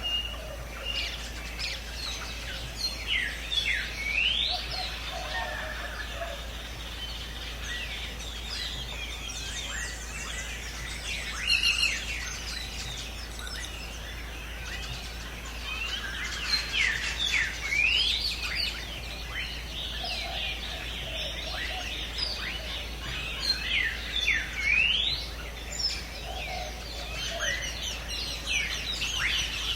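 A chorus of several birds calling at once: many quick chirps and whistles sweeping up and down in pitch, with now and then a lower whistled phrase.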